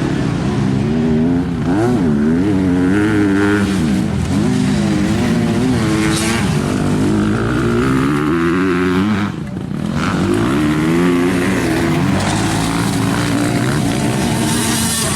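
Motocross bikes racing, engines revving up and down repeatedly as riders work the throttle through the track, with more than one engine heard at once. The sound drops out briefly about two-thirds of the way through.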